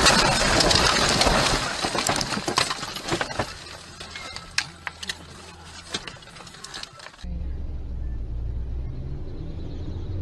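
Tail of a car crash: a loud, noisy crash sound fades over the first two seconds, followed by scattered clinks and rattles of falling debris. About seven seconds in, it cuts to a steady low drone of a car driving, heard inside the cabin.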